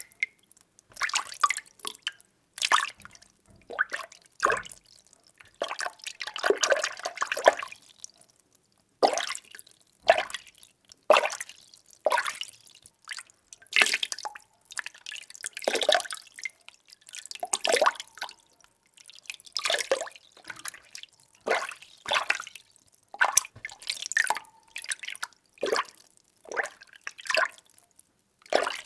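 Water being stirred, a swish and slosh with each stroke about once a second, with a longer swirling stretch a quarter of the way in and a short pause after it.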